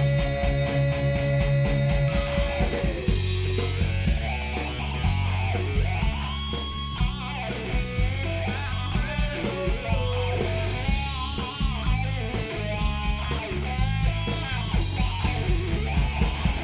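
Live rock band playing an instrumental break: a lead electric guitar plays a melody of held and bending notes over bass guitar and a drum kit.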